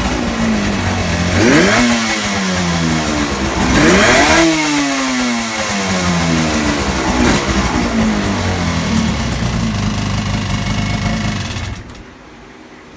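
Yamaha RZ250R running a TZR250 1KT two-stroke parallel-twin engine, idling and blipped up in quick revs that fall back to idle: a big rev about four seconds in, with smaller ones before and after. The engine sound cuts off near the end.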